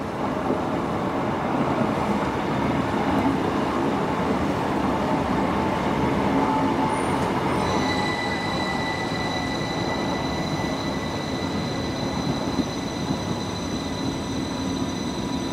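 A train running through the station, a steady dense rumble of wheels on rail, with a set of steady high whining tones setting in about halfway through and holding on.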